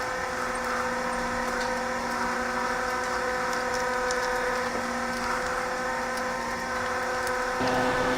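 Lift truck (forklift) running with a steady, even hum; near the end it gets louder, with a deeper tone coming in.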